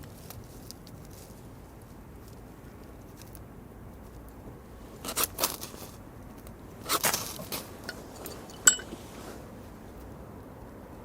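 Cooking gear being handled: two short runs of knocks and clicks, then one sharp clink that rings briefly.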